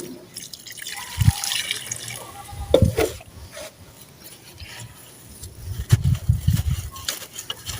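Water poured onto dry, dusty sand-cement chunks, which crumble in the wet with a hiss about a second in and soft low thuds, the thuds bunching up near the end.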